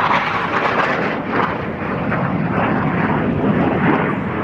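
Jet noise of McDonnell Douglas F/A-18 Hornets in flight, their General Electric F404 turbofans making a steady rushing noise.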